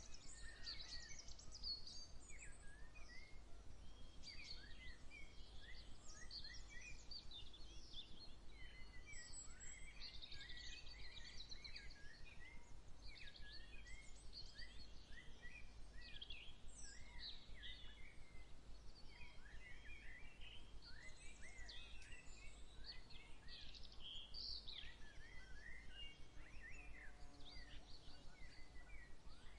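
Several songbirds singing at once, a dense, overlapping chorus of short high chirps and trills, over a faint steady low rumble.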